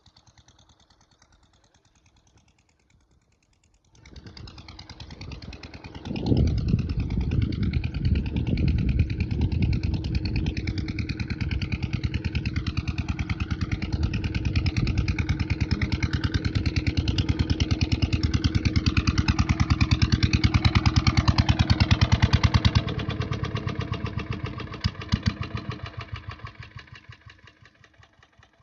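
Single-cylinder 8 HP diesel pumpset engine starting: a quieter turning-over sound about four seconds in, then it catches and runs with a fast, even chugging beat. Near the end it drops and dies away.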